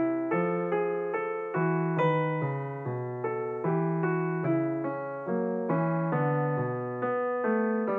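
Background piano music: struck notes that fade after each strike, in an even rhythm over a bass line.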